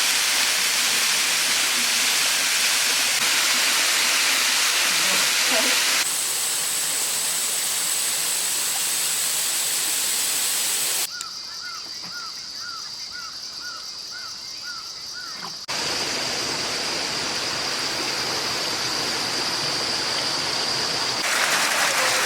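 Waterfall water rushing in a steady, dense hiss, changing abruptly several times where clips are cut together. In a quieter stretch in the middle, a run of about eight short, evenly spaced chirps sounds over a steady high whine.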